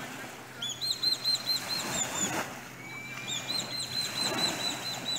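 A bird calling in two runs of quick, repeated high chirps, with a single drawn-out note between them, over the soft steady wash of small waves on the shore.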